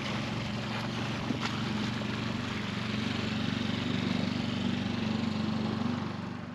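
Engine running steadily, a low hum under a rushing noise, fading out near the end.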